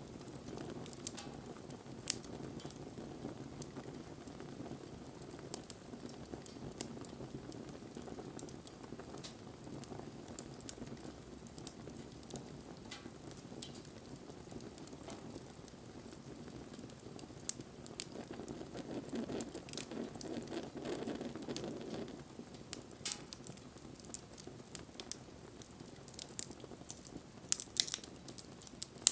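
Wood campfire burning: a low steady rush of flame with scattered crackles and pops, one sharp pop about two seconds in and a cluster of crackles near the end.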